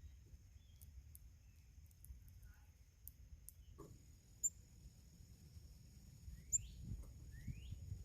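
Faint birdsong at a feeder: scattered short, high chirps, and two quick rising calls in the second half. Underneath run a steady high-pitched buzz and a low rumble.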